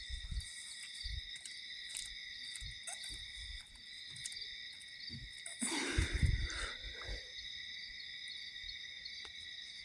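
Night insects, likely crickets, chirring steadily in a continuous high chorus. A brief, louder rustling noise comes about six seconds in.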